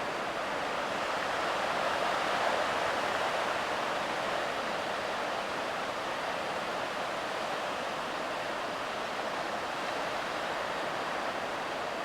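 Surf breaking on a sandy beach under a large typhoon swell, a continuous rushing wash of waves that swells slightly a couple of seconds in.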